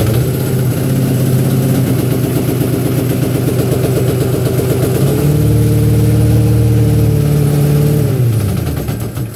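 Small 14-horsepower gasoline engine of a homemade truck-mount carpet cleaning machine running just after starting. Its speed steps up about halfway through, holds, then drops near the end as it slows.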